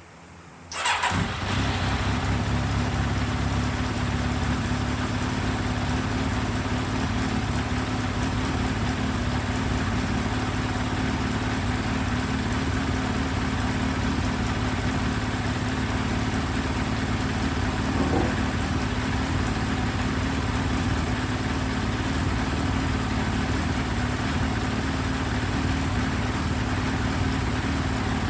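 Yamaha YZF1000R Thunderace's inline-four engine cranked on the electric starter under a second in, catching almost at once. It then idles steadily.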